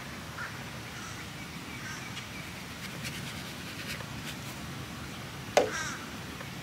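Outdoor background with scattered short bird chirps, and a single sharp knock about five and a half seconds in, the loudest sound.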